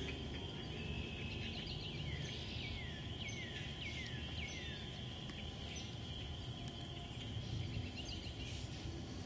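A bird calling a run of about seven slurred notes, each falling in pitch, roughly two a second, over a steady high-pitched background chorus.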